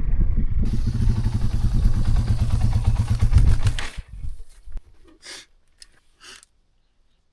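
Motorcycle engine running with a rapid, even firing pulse. It stops abruptly about four seconds in, and a few faint clicks follow before silence.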